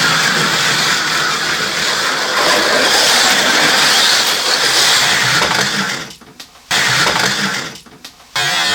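Small electric motors of 1/43-scale Carrera Go slot cars whining as the cars race round the track. The sound drops away twice for under a second near the end, coming back suddenly each time.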